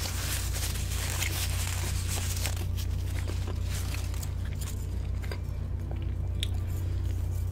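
Close-up chewing of cheese-powdered Korean fried chicken: crisp crunching, densest in the first couple of seconds, then thinning to scattered clicks and smacks. A steady low hum runs underneath.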